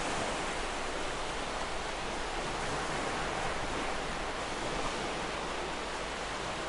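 Ocean surf: a steady wash of waves with no single break standing out.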